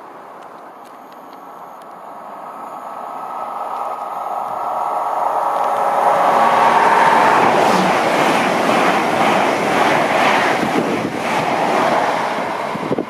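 A train approaching and passing at speed on the main line, with a steady whine as it nears. It grows louder over several seconds into a rushing clatter of wheels on rail that is loudest about six seconds in.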